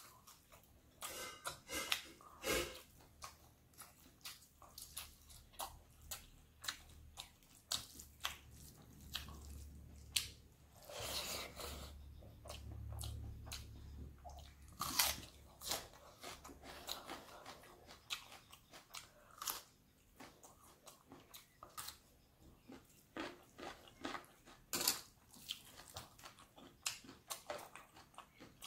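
Close-miked chewing and crunching of a hand-fed mouthful of rice, fried egg and crispy fried dry fish, with many sharp, irregular crunches and wet mouth sounds.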